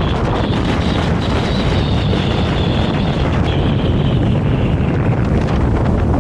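Vario LF2R.E tram running along the track, with heavy wind buffeting on the microphone. A faint high whine rises in the first second or so, then sinks slightly and fades past the middle.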